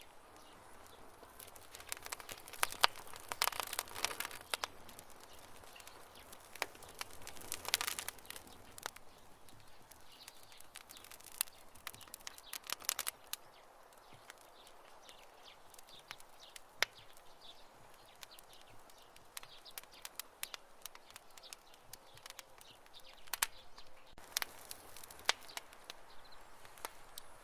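Campfire crackling, with irregular sharp pops and snaps of burning wood that come in clusters, the busiest a few seconds in and again near the end.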